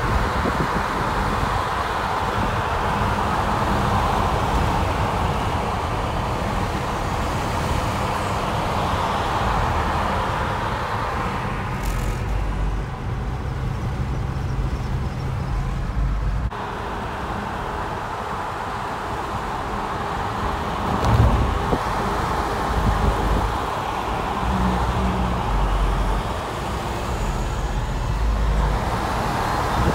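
Steady rushing road and wind noise of a car on the move, with a low rumble underneath; the sound changes abruptly about halfway through.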